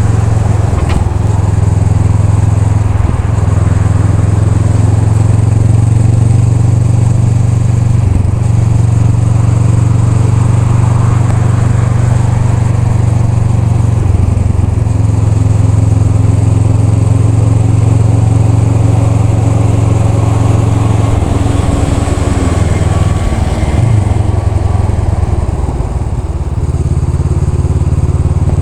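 Honda Rebel 500's parallel-twin engine running steadily under way, a deep continuous engine note whose pitch shifts a little, with a brief drop in level near the end.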